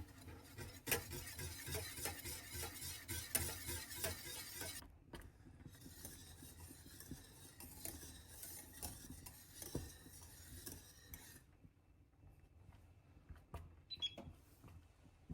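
Dishes and cutlery being handled: quick clinks and scraping, dense for about the first eleven seconds and sparser after, with a short ringing clink about fourteen seconds in.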